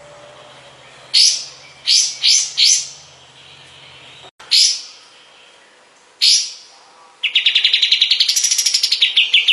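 A kapas tembak songbird sings six loud, sharp, down-slurred notes at uneven intervals, then breaks into a fast rattling trill about seven seconds in.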